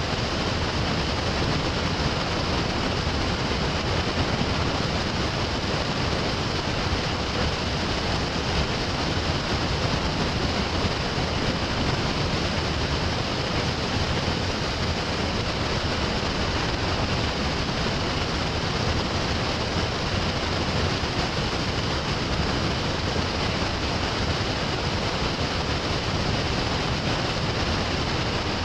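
Steady rushing noise of moving water and wind, unchanging throughout.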